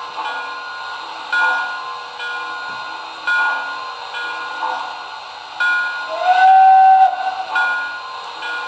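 Digital sound system of a model steam locomotive running: a loud puff comes about every two seconds over a steady hiss. About six seconds in, a whistle blast slides up in pitch and holds for about a second.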